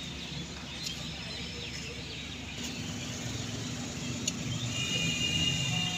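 Suzuki Mehran's swapped-in 660cc K6A three-cylinder engine idling steadily with a low hum. A high steady tone joins in near the end.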